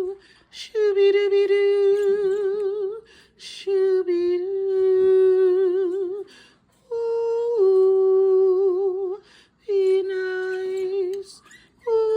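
A woman singing long wordless notes with a wide vibrato, in four phrases of two to three seconds with short breaks between; in some phrases the note steps down in pitch partway through.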